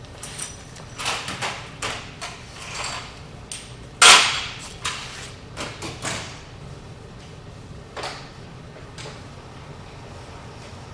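Metal hand tools clanking and scraping, with a breaker bar and socket being worked on the hub bolts: a run of knocks with one loud clank about four seconds in, then it goes quieter.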